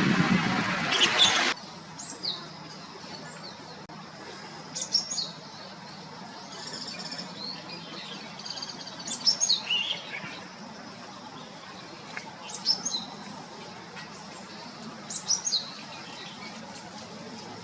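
White-cheeked starling calls over a loud, noisy background for the first second and a half. Then a Japanese tit sings: short phrases of high, quick sweeping notes, repeated every few seconds.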